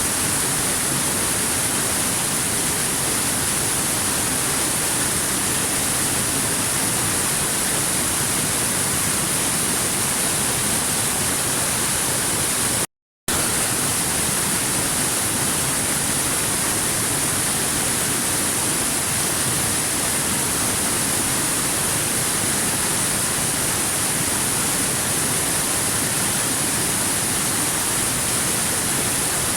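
Waterfall rushing as a steady, even hiss with no changes in level. It cuts out completely for a split second a little before halfway.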